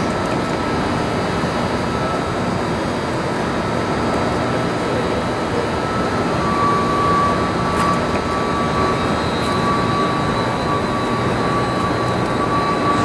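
Steady industrial machinery noise: a constant roar with a thin high whine that drops slightly in pitch and grows louder about six seconds in.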